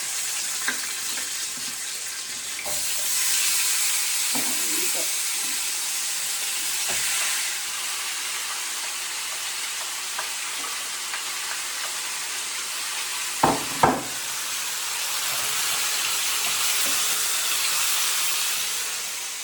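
Lamb frying in hot oil in a pan, a steady sizzle. Two sharp knocks a little over two-thirds of the way through, like a utensil striking the pan.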